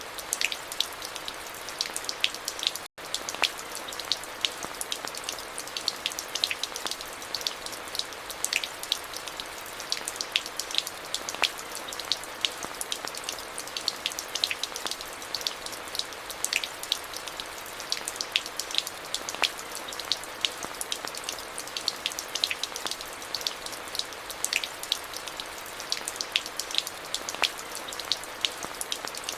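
Steady rain with many individual drops pattering sharply on hard surfaces. A split-second gap in the sound comes about three seconds in.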